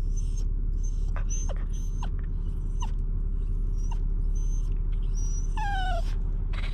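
A dog whining and whimpering in short, repeated high squeals, then one longer whine that falls in pitch near the end: the dog is distressed at being left by a family member. A steady low hum, a vehicle running, sits underneath.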